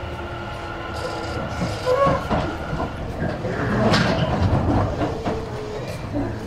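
Interior sound of a Tobu 50000 series electric train car standing at a station stop: a steady hum of onboard equipment, with a louder rush of noise about four seconds in.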